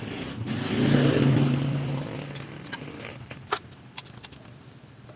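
A passing motor vehicle: a low engine hum swells and fades over about two seconds. A sharp click follows about three and a half seconds in.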